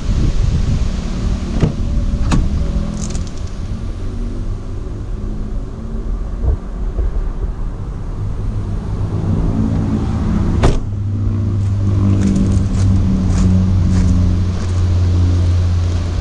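A motor vehicle's engine running with a steady low hum, joined by a few sharp knocks, the loudest about eleven seconds in.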